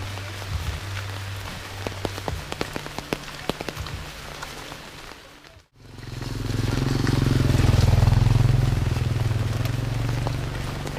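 Steady rain falling, with many sharp drop ticks close by. About halfway the sound cuts out for a moment, then a loud low rumble swells up and fades away, like a passing vehicle.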